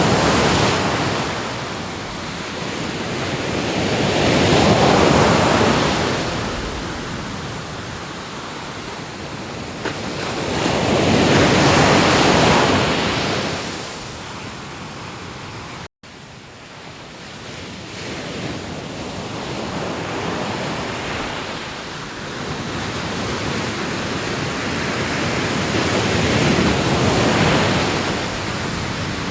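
Sea waves breaking and washing up the shore, each surge swelling and fading over several seconds. About halfway through, the sound cuts out suddenly for a moment, and the waves after it are softer.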